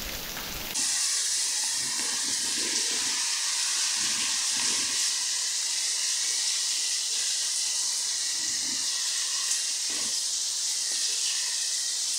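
Rain falling on a street and paved yard: a steady high hiss that steps up suddenly to a louder level about a second in.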